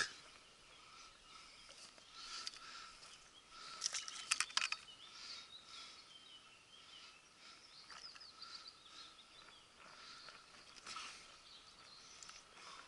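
Quiet outdoor ambience with birds singing, and a quick cluster of sharp clicks about four seconds in.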